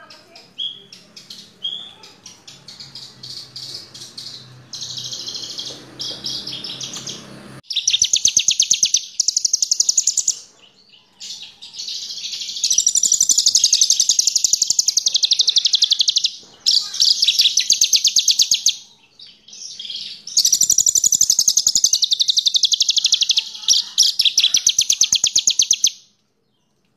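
Branjangan (Horsfield's bush lark) singing: long phrases of very fast, rapidly repeated high trilled notes a few seconds each, separated by short pauses, with a faint low hum under the first few seconds.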